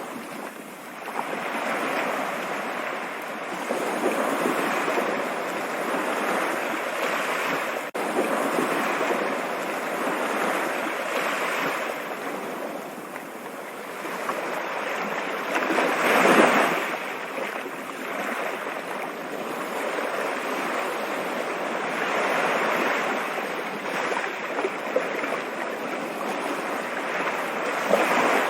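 Stream water running steadily, a rushing wash that swells and ebbs, with one louder surge about halfway through.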